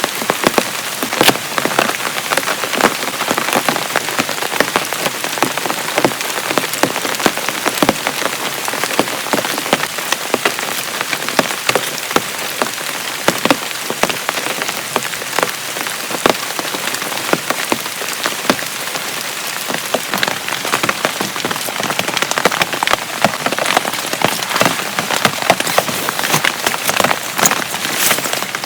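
Heavy rain falling steadily, with many sharp individual drop impacts hitting a surface close by.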